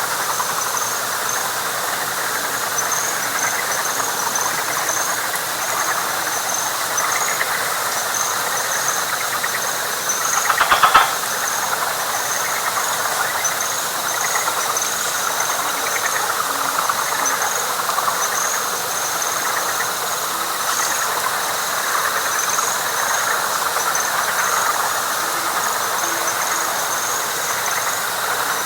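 Night chorus of frogs in a wet pine flatwoods, a dense steady calling, with a higher rhythmic chirping over it and a faint thin whine. About ten seconds in, one louder pulsed call swells for about a second and stops.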